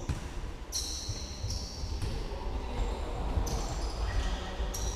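Football match in play: the ball being kicked and bouncing, with short high squeaks now and then over a steady low rumble.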